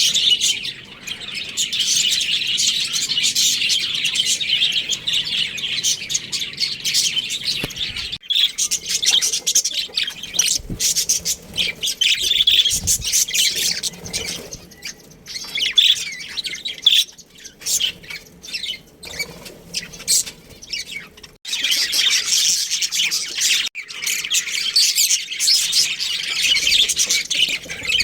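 Small birds chirping and chattering continuously in a dense, high-pitched stream, with a couple of brief lulls.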